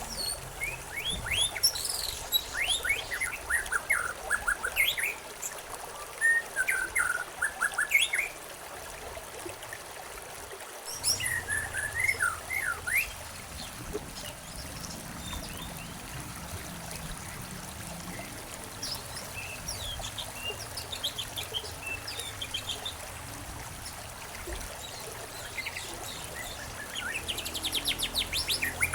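Several small songbirds chirping and trilling in bursts of short, quick notes, busiest at the start, again about twelve seconds in, and near the end. A stream trickles steadily under them.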